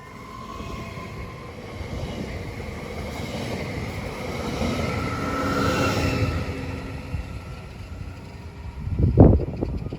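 Train passing through the station at speed, its rush of wheels and air building to its loudest about six seconds in, with a faint high whine on top. Near the end comes a sudden, brief loud low blast.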